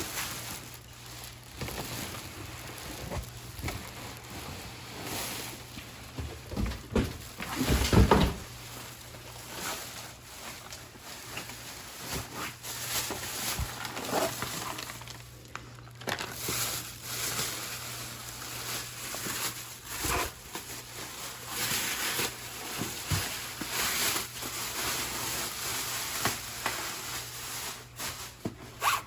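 Packaging being handled and opened: irregular rustling and scraping with scattered knocks, and one louder thump about eight seconds in.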